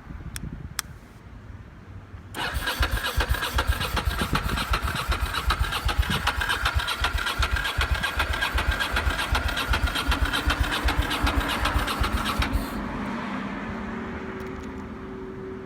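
Ducati Monster L-twin being cranked on its electric starter for about ten seconds, with a fast even churning and a steady starter whine, but the engine never catches: the bike won't start. The cranking stops suddenly, leaving a fainter steady hum.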